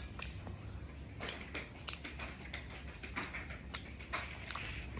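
A person chewing a ham bagel sandwich with audible mouth sounds: a run of short, irregular clicks and smacks.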